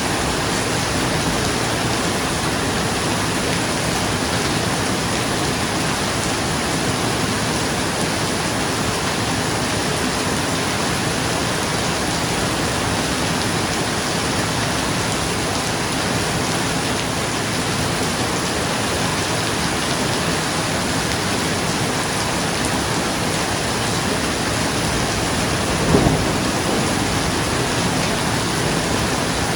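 Steady, heavy rain pattering on a roof, an even hiss. Near the end, a brief low clap of thunder stands out.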